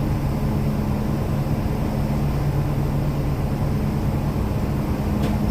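Boat engine running steadily on the river: a low, even drone with a steady hum.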